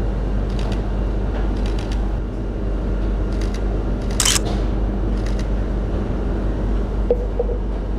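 Canon EOS R shutter firing in four short bursts of rapid clicks. There is a brief hiss about halfway through, over a steady low room hum.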